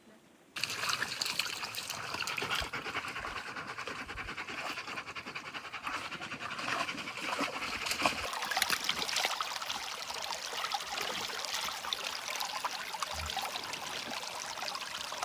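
Running water trickling and splashing steadily, cutting in suddenly about half a second in.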